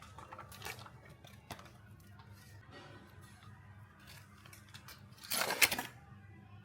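Small handling clicks over a low steady background, then a brief loud rustle or tearing noise a little after five seconds in.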